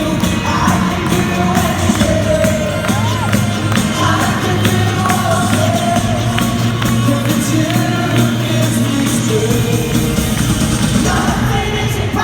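Live worship band music with voices singing over a steady beat.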